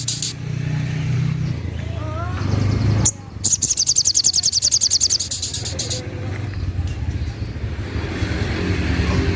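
Sogok ontong (sogon) bird giving a rapid, high, chattering trill: a moment of it at the start, then a longer run of about two and a half seconds from about three and a half seconds in. A steady low rumble like passing traffic sits underneath.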